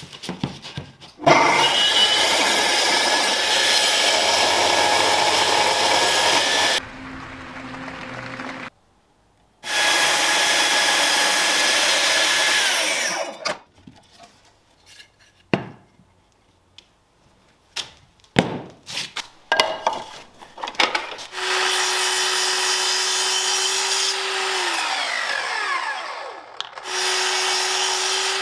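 An electric power tool run in several bursts of a few seconds each, its motor winding down with a falling whine as each run is switched off. Short knocks and clicks of handling come between the runs.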